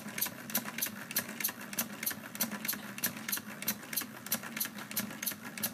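Lego pneumatic single-cylinder engine running on compressed air from a bottle tank, clicking steadily about four times a second over a low hum.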